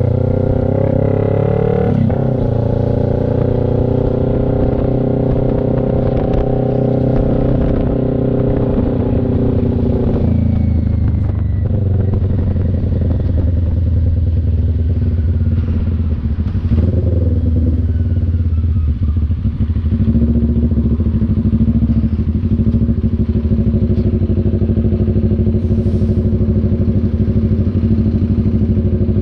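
CF Moto NK400's two-cylinder engine running under way: revs climb over the first couple of seconds and hold steady, then drop about ten seconds in and change again around seventeen seconds, settling at a lower steady pitch.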